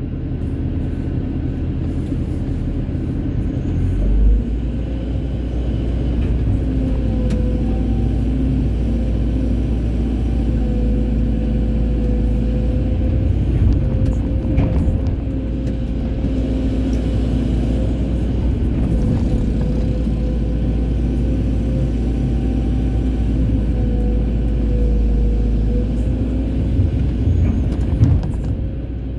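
Hydraulic excavator running steadily under load: a low diesel engine rumble with a hydraulic whine that wavers in pitch as the machine works.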